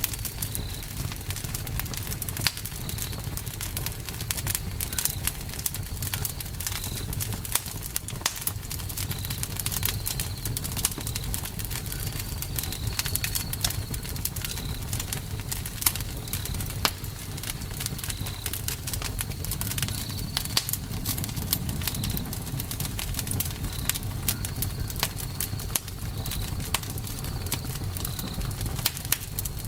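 Campfire crackling, with sharp pops scattered irregularly over a steady low rumble of burning. A short high chirp repeats about once a second behind it.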